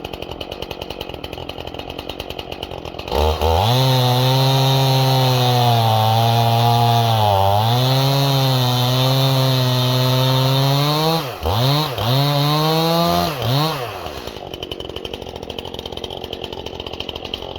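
Stihl chainsaw idling, then opened to full throttle about three seconds in and cutting through an ash log, its pitch sagging as it loads up in the cut; the freshly sharpened chain is cutting well. Near the end the throttle is let off and blipped twice, and the saw drops back to idle.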